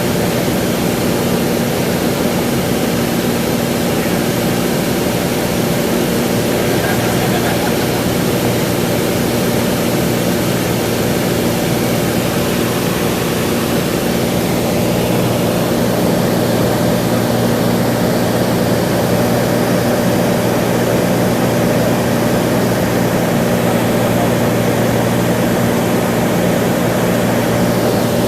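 Cessna 182's single piston engine and propeller droning steadily in flight, an even engine note with a constant hiss of air over it.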